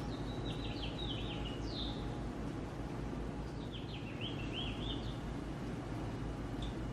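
A songbird singing two short phrases of quick, descending chirps, with a single note near the end, over a steady background of hiss and low rumble.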